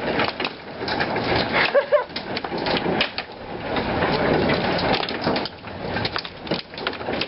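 Heavy hail coming down, a dense, irregular clatter of hailstones striking hard surfaces over a steady rush of falling ice.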